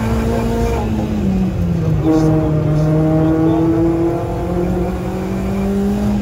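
Renault Clio 3 RS Group N rally car's 2.0-litre four-cylinder engine at stage pace, heard from inside the cabin. The revs hold high, drop about a second in, then climb steadily back up over the next few seconds.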